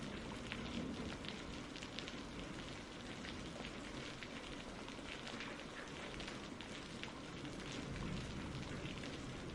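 Steady rain falling, many separate drops heard over a low rumble underneath.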